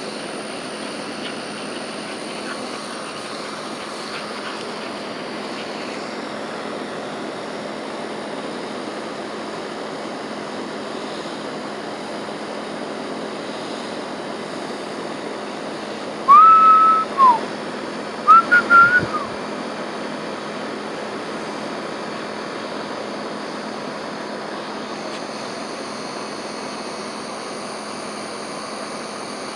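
Steady outdoor background hiss with two bursts of whistling about halfway through: first one held note that drops away at its end, then, a second later, a few short quick notes.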